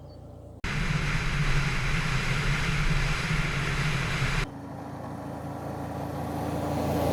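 Motor vehicle engine running on a dirt road, in spliced clips: the sound jumps abruptly louder about half a second in, then drops to a quieter, steadier engine after about four seconds. From there a vehicle grows steadily louder as it approaches.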